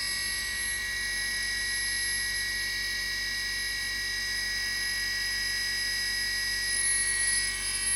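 36 V brushless DC lawn-mower motor (1200 W, KV 94) running steadily: a high-pitched electric whine made of several steady tones, the highest one dipping slightly near the end.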